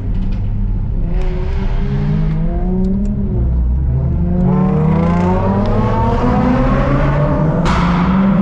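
Car engine revving hard, its pitch climbing steadily over several seconds as it accelerates. A loud rush of noise cuts in near the end.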